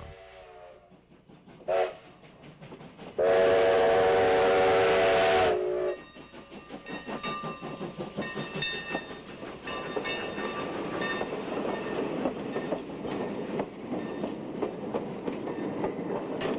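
Steam locomotive whistle: a short toot, then one long, loud, steady blast of several notes held for about two and a half seconds. After it the train rolls on, with the dense rattle of the running train and faint high squeals.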